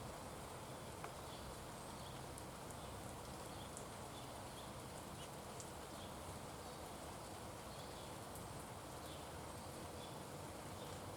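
Faint, steady outdoor background hiss, with scattered short, high, faint ticks and chirps throughout.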